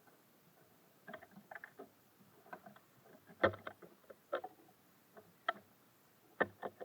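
Irregular taps and knocks of small birds pecking and hopping on a bird feeder, the loudest knock about halfway through.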